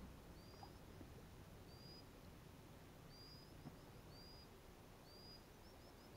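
Faint bird calls: a short high chirp that rises and levels off, repeated about once a second, sometimes followed by two or three quick shorter notes. A single faint knock about three and a half seconds in.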